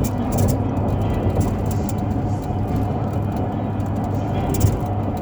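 Steady engine and road rumble heard from inside a moving vehicle, with two brief rattles, one near the start and one near the end.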